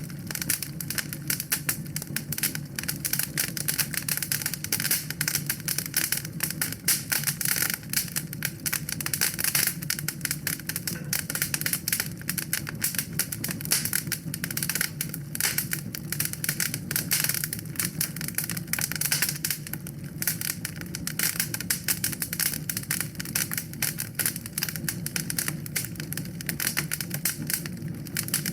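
Wood fire in a fireplace crackling steadily: dense, rapid snaps over a low, steady rumble.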